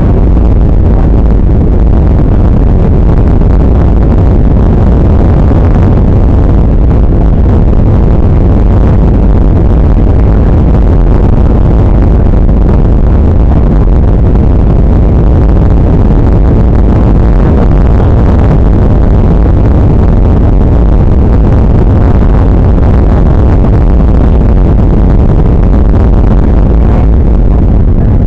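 Steady, loud rumble of a Boeing 737-800 heard from inside the cabin: engine and airflow noise, heaviest in the low end and unbroken throughout.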